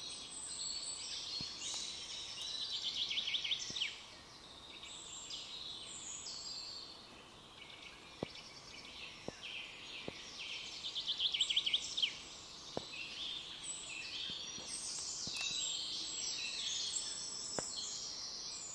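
Several songbirds singing at once in an overlapping chorus of chirps and warbles, with a fast, loud trill about three seconds in and again around eleven seconds. A few faint, light clicks sound in the second half.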